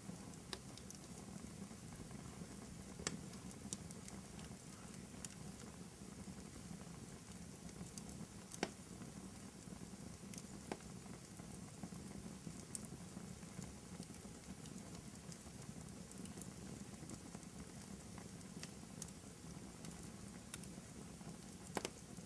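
Wood fire burning in a fireplace: a steady low rustle and hiss with sharp crackling pops scattered through, the loudest about eight and a half seconds in and a quick pair near the end.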